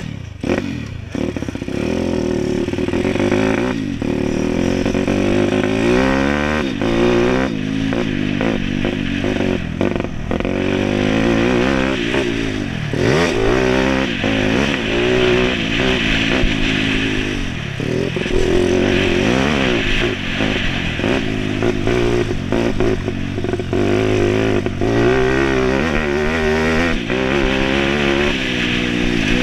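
YX140 pit bike's single-cylinder four-stroke engine being ridden hard, revving up and easing off again and again.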